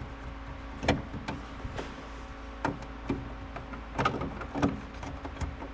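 Scattered light clicks and knocks from hands handling small parts and wiring, about five of them, over a steady faint hum.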